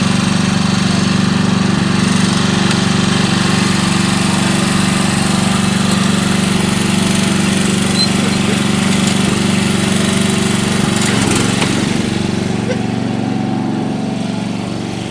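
Small single- or twin-cylinder riding-mower engine running steadily and loud, with a rapid, even firing beat. About eleven seconds in its note shifts and it gets quieter, as if throttling back.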